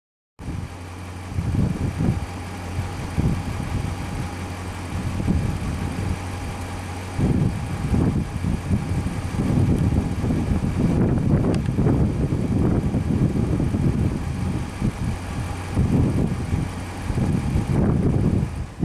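Motor vehicle engine running steadily, with uneven low rumbling over it.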